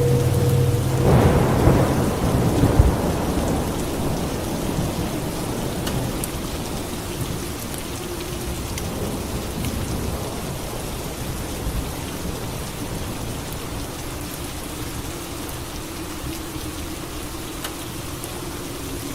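Steady rain with a clap of thunder about a second in, rumbling away over the next few seconds.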